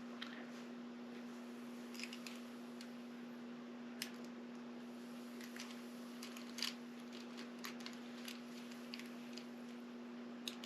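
Small sharp clicks and taps of metal lock parts being handled and fitted together by hand, scattered and irregular, over a steady hum.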